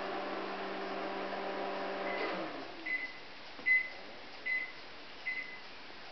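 Microwave oven running with a steady hum that stops a little over two seconds in, followed by five short high-pitched beeps about a second apart signalling that the heating cycle has finished.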